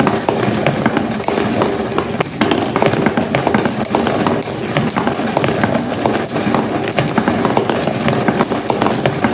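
Marbles rolling and clattering down a homemade marble run: a dense, continuous rattle of many small clicks over a steady rolling rumble.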